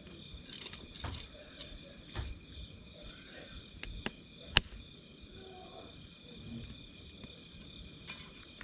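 Wood campfire crackling, with scattered small pops and one sharp, loud pop about four and a half seconds in, over a steady high-pitched trill in the background.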